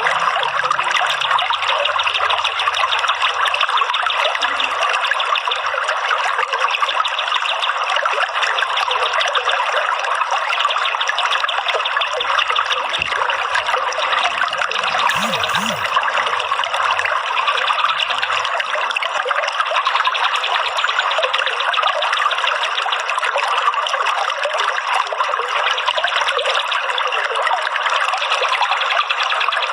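Running water trickling steadily, like a small fountain or flowing stream, in a continuous dense rush with no pauses.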